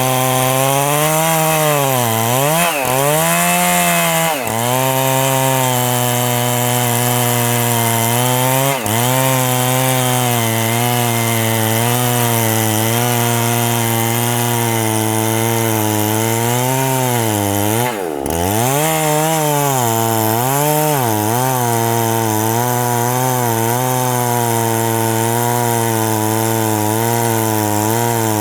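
Chainsaw engine running hard while cutting into a very thick tree trunk. Its pitch drops and recovers several times as the saw bogs down under load, the sign of a saw struggling in an oversized cut.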